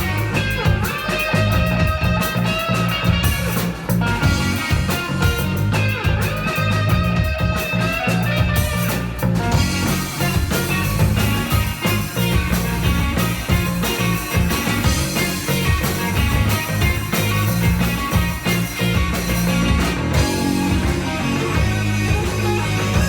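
Live rock band playing an instrumental passage: electric guitar over bass and drums.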